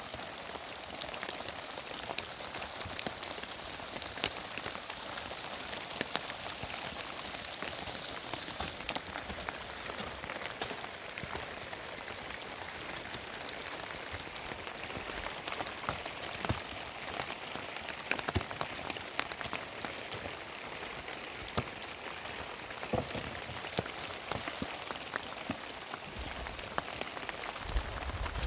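Steady heavy rain falling, with many separate drops ticking sharply on nearby surfaces.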